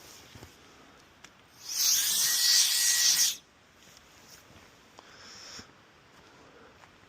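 Cordless electric air duster (WOLFBOX MF100) blowing a burst of air for about a second and a half: a loud hiss with a motor whine that rises and then holds steady. A shorter, fainter hiss follows a couple of seconds later.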